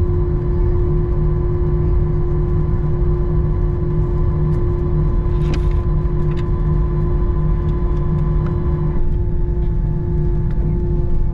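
Steady jet engine and airflow noise heard inside an Airbus A321 cabin: a low rumble with a steady hum. A higher whine drops out about three quarters of the way through, and a few faint clicks come about halfway.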